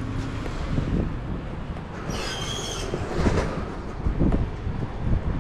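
Kawasaki ZX-6R motorcycle under way: steady road and wind noise with a low rumble, and a brief high squeal about two seconds in.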